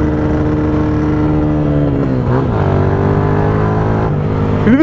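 Motorcycle engine running at a steady speed while riding; its note drops slightly about two seconds in, then holds steady.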